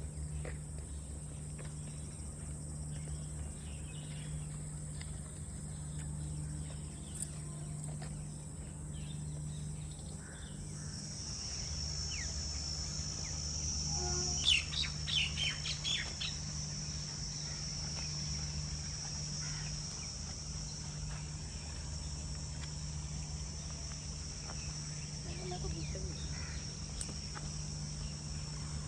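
Steady high-pitched drone of insects, its pitch stepping lower about eleven seconds in, with scattered bird chirps and a quick run of louder calls about halfway through. A low steady hum runs underneath.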